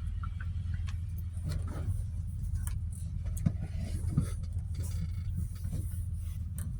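Steady low rumble of a car, with a few scattered clicks.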